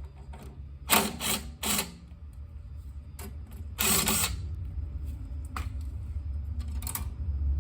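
Metal clicks and clatter of hand tools working on a snowblower: a quick run of three about a second in, a longer rattle about four seconds in and another near the end, over a steady low hum.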